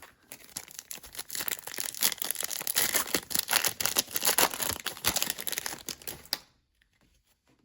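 Foil trading-card pack wrapper being torn open and crinkled in the hands, a dense crackling that stops abruptly near the end.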